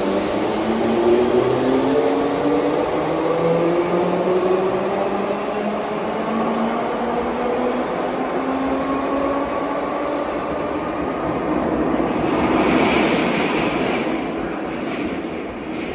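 A train pulling out and accelerating, with several steady whining tones that rise slowly in pitch over a dense rumble. A louder, hissier swell comes a couple of seconds before the end, then the sound fades.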